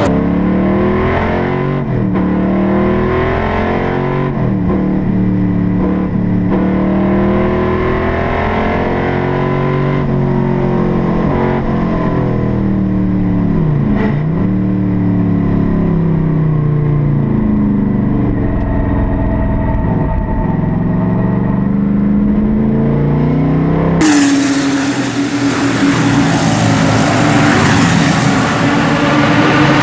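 Classic race car engine under hard acceleration, its pitch climbing and then dropping over and over as it runs up through the revs and shifts or lifts off. About 24 seconds in the sound changes abruptly to a brighter, harsher tone.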